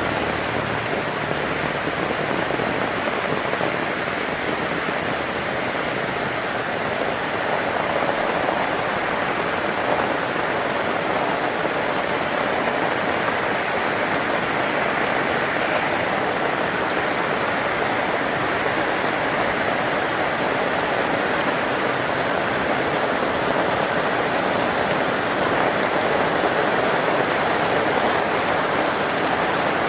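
Heavy rain falling steadily, an even hiss of rain on the ground and surfaces.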